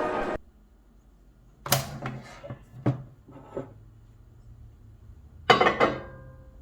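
Mechanical clunks and clicks from a 1976 Amana Radarange microwave oven being operated: a sharp clunk, a few lighter clicks, then a loud metallic clunk with brief ringing near the end. A low steady hum runs beneath from the first clunk on. Background music stops just before.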